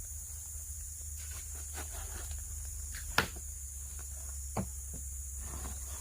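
Steady high insect drone with scattered small handling clicks and knocks; a sharp knock about three seconds in and a softer one about a second and a half later.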